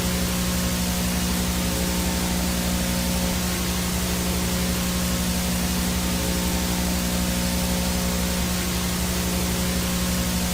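Analog VHS static with no signal: a steady, even hiss with a steady low hum underneath and faint higher steady tones, all unchanging.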